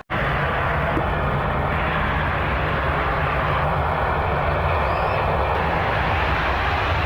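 Jet airliner engines running loud and steady: a deep rumble with a faint high whine that comes and goes.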